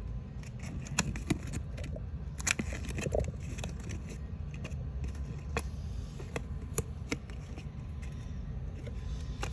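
Scattered clicks, taps and scrapes of paper and cardboard model pieces being handled on a table, over a steady low rumble.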